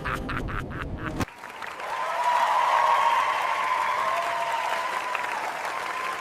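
Applause, a crowd clapping, at first over music; the music cuts out about a second in and the clapping carries on alone.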